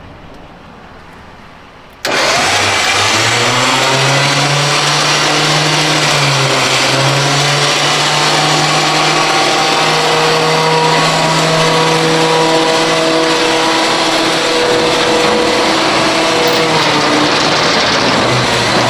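A winch motor starts suddenly about two seconds in and runs steadily under load, pulling a heavy truck. Its whine holds one pitch, sagging briefly once before steadying.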